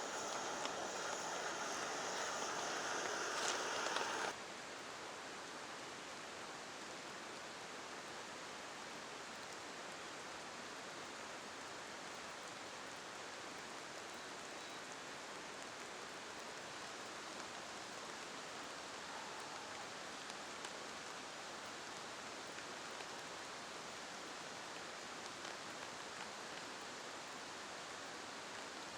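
Steady hiss of rain falling. For the first four seconds or so a louder, brighter rushing noise plays over it, then cuts off suddenly.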